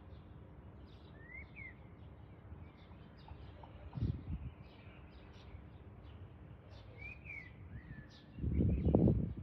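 Small birds chirping outdoors: many short, high chirps repeating throughout, with a few slurred whistled notes about a second in and again near seven seconds. A brief low rumble comes about four seconds in, and a louder low rumble of about a second near the end.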